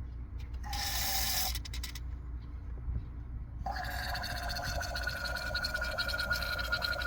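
Aerosol can of foam carburettor cleaner spraying through a nozzle tube into a spark plug hole to clean carbon from the combustion chamber. A short hiss comes about a second in, then a continuous gurgling hiss with a steady whistle from about halfway.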